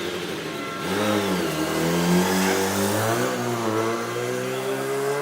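Racing motorcycle engine revving: its pitch dips and wavers briefly, then climbs steadily as it accelerates, before cutting off suddenly.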